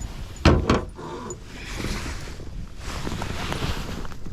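Two sharp knocks against the kayak about half a second in, then a few seconds of water splashing as a hooked northern pike thrashes at the boatside.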